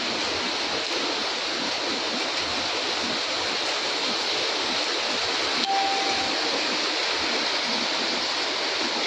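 Steady hiss of heavy rain pouring down in a storm, unbroken and even. A short faint beep comes a little past halfway.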